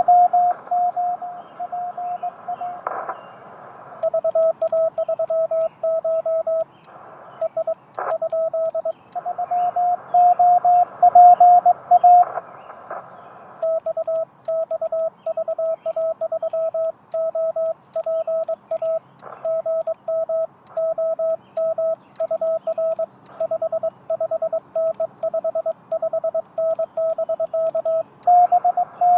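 Morse code (CW) on a Yaesu FT-891 transceiver: a keyed tone of dots and dashes. Stretches of received signals in receiver hiss alternate with longer, cleaner runs of the radio's sidetone while the operator sends, with faint clicks of the key.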